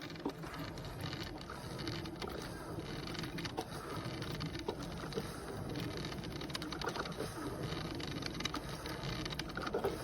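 Personal drip coffee maker brewing: a steady gurgling hiss of heated water, with small scattered pops and clicks.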